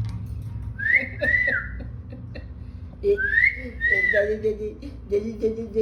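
Pet parrot giving a two-note wolf whistle, a rising note then a rise-and-fall, twice, followed by lower voice-like chatter.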